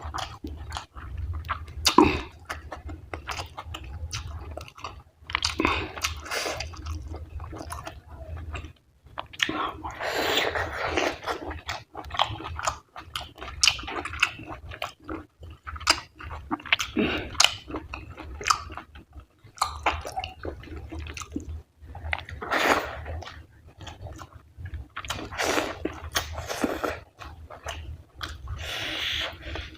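A person chewing and biting a mouthful of fatty mutton curry and rice close to the microphone, with irregular bursts of chewing and sharp mouth clicks.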